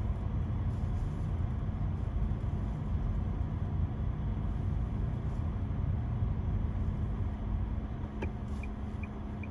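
Road noise of a car driving, heard from inside: a steady low rumble with a steady hum. Near the end a quick, regular ticking starts, about three ticks a second.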